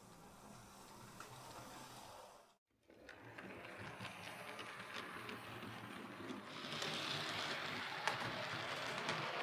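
Hornby R3639 OO gauge Princess Coronation Class model locomotive running on track: the small DC motor whirs steadily and the wheels tick over rail joints. The sound briefly drops out about two and a half seconds in, then grows louder near the end.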